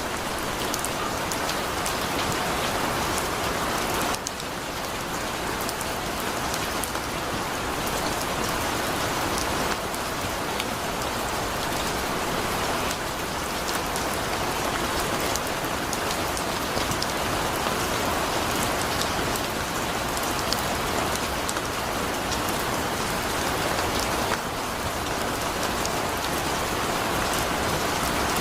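Heavy rain falling steadily, a dense hiss of drops with fine ticking of individual raindrops on a surface.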